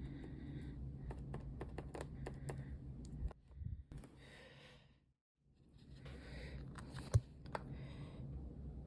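Small handling sounds of craft work: light clicks and taps and a few short scratchy rustles over a steady low hum. The sound drops out briefly just past the middle, and a single sharp knock comes about seven seconds in.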